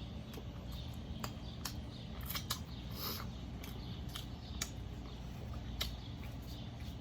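Someone chewing a taco with their mouth close to the microphone: irregular crisp crunches and wet mouth clicks, the loudest about two and a half seconds in, over a steady low background hum.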